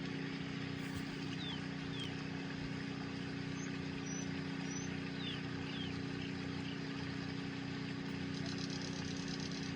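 Steady low background hum with a few steady tones in it, and a few faint short falling chirps about one to five seconds in.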